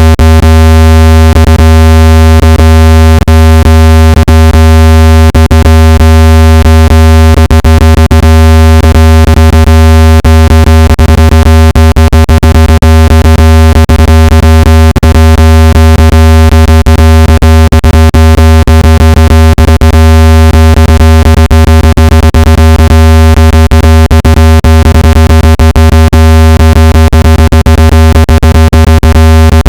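Loud, steady, low synthetic speaker-cleaning tone with many overtones, played through a phone speaker to vibrate water and dust out of it. Frequent sharp clicks break through it, thickest in the middle.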